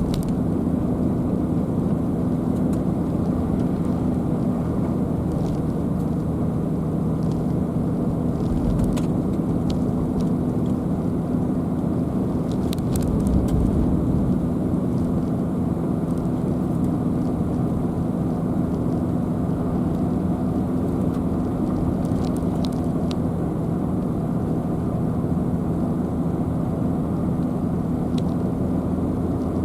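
Car driving along a road: a steady low rumble of tyres and engine with a constant low hum, a brief heavier rumble about halfway through, and a few faint ticks.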